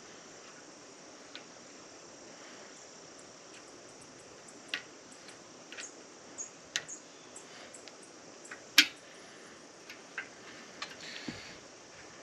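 Scattered small metallic clicks and taps, with one sharp click about nine seconds in, as a snap ring is worked onto a shaft by hand without snap ring pliers.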